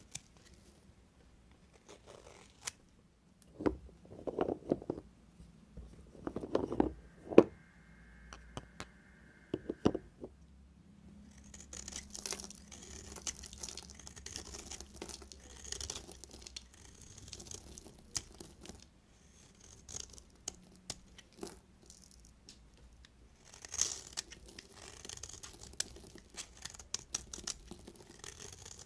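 Knife cutting through bars of soap: crisp crunching and crackling with many sharp clicks, in two longer stretches, after a few louder knocks in the first several seconds.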